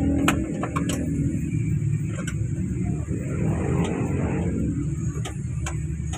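Daihatsu Hijet 1000 engine running at a steady idle, a low even rumble with scattered light ticks and clicks.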